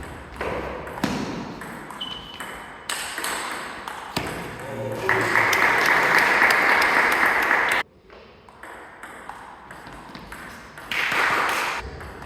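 Table tennis ball being hit back and forth in a rally: sharp clicks of ball on paddle and table about once a second. From about five seconds in, a loud steady hiss covers it for nearly three seconds, then cuts off suddenly.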